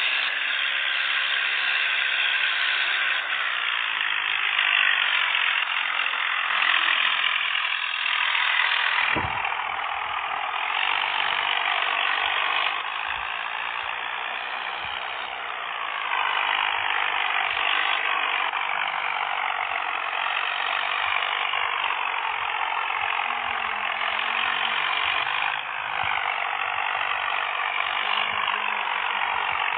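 Tractor engine running, a steady loud mechanical clatter whose level jumps abruptly a few times.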